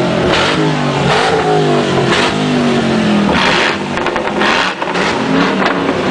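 Car engine revving repeatedly, its pitch rising and falling with loud rushes of noise about once a second.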